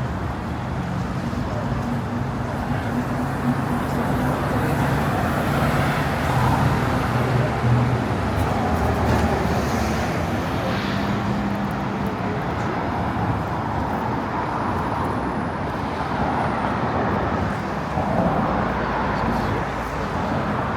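City street traffic: motor vehicles running past, with a vehicle's engine humming close by during the first half.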